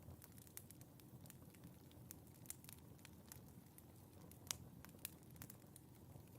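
Wood fire in a fireplace crackling: irregular sharp pops and snaps over a low, steady rumble of the flames, with one louder pop a little past the middle.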